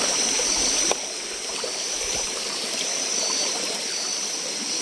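Forest stream running over rocks, a steady trickling rush of water, with a constant high-pitched drone above it. The sound becomes a little quieter about a second in.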